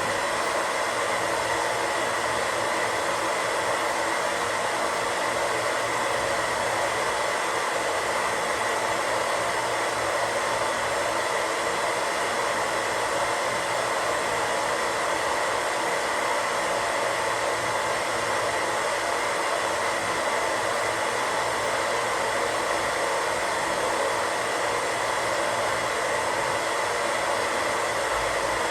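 Radio static: a steady, unchanging hiss with a faint high tone running through it.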